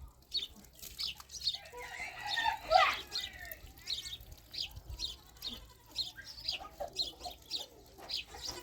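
Domestic chickens clucking, with short high chirps repeating every few tenths of a second and a louder call a little over two seconds in.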